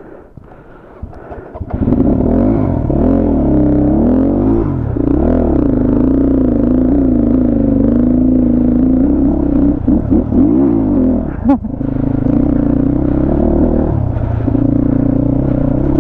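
250 cc motorcycle engine coming in abruptly about two seconds in, revving up and down several times, then running steadily under throttle. There is a short break in the sound a little past halfway.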